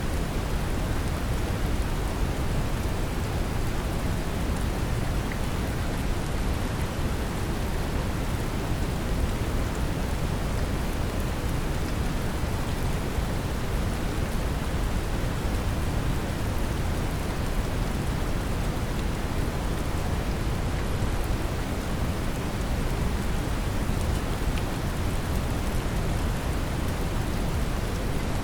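Steady brown noise, a deep even rumble-heavy hiss, mixed with gentle rain falling on a surface, unchanging throughout.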